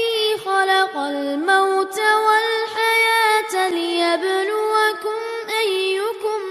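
A solo high voice chanting melodically, holding long notes and sliding between them with ornamented turns.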